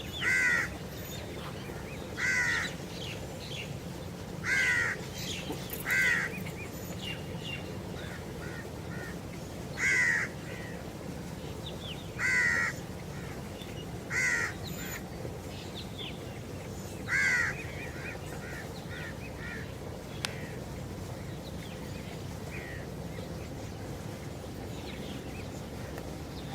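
A bird calling in short repeated calls at uneven gaps of one to three seconds, with fainter chirps in between over a steady low hum. The loud calls stop about two-thirds of the way through, leaving only faint chirps.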